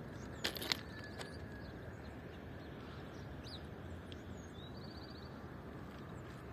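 Faint birds calling over a steady background hiss: a few high chirps and a short rapid trill near the middle. Two sharp clicks come about half a second in.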